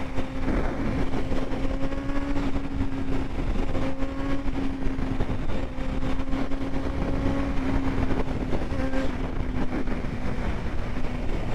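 Honda CBR650 inline-four engine with an aftermarket exhaust, running at a steady pace under way, heard from the rider's position. A constant, even drone sits over heavy wind and road noise.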